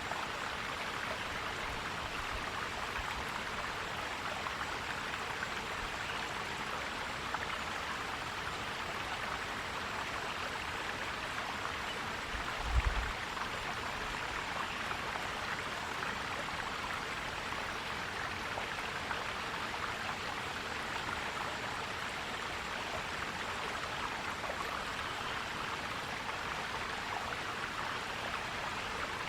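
Forest stream flowing, a steady gurgling rush of water. A brief low thump comes about halfway through.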